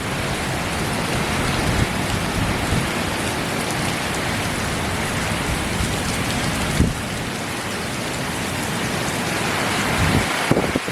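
Hurricane rain pouring steadily, with a few brief low thumps about two, seven and ten seconds in.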